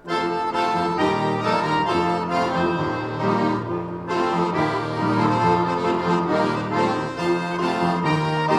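A bayan orchestra, an ensemble of Russian button accordions, playing full, held chords over a strong bass line. The music comes in together right at the start after a brief pause.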